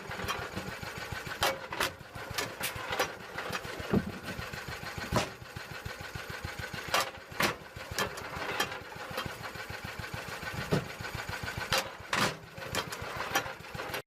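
Electric stationary log splitter running with a steady low drone, with irregular sharp cracks and knocks throughout as the wood is split.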